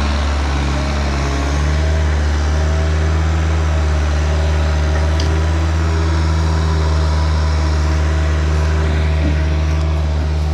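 A vehicle engine running steadily with a deep, even hum.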